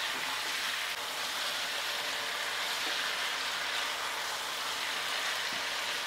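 Chicken, onions and potatoes sizzling steadily in hot oil in a kadai while a spatula stirs them, with a few light taps of the spatula against the pan. The ginger-garlic paste is being fried off.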